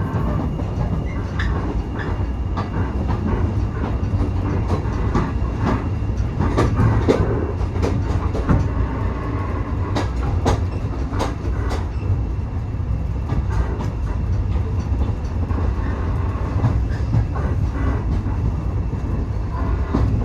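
Railway passenger coach running along the track, heard from aboard: a steady low rumble with irregular clicks and clunks as the wheels cross the rail joints.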